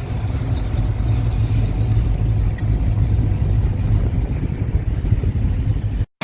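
Car engine running with a deep, steady rumble, cutting off abruptly near the end.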